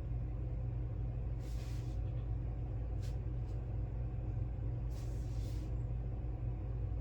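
A steady low background hum, with a few brief soft hissing rustles over it.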